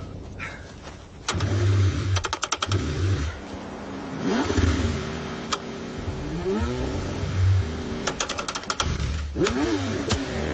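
Car engine being cranked and caught in uneven bursts, its pitch rising and falling as it revs, with clusters of sharp clicks: a cold engine struggling to start.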